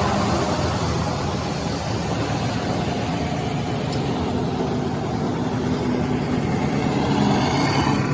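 Six-roll wood sanding machine running, giving a steady, even rush of noise over a low motor hum.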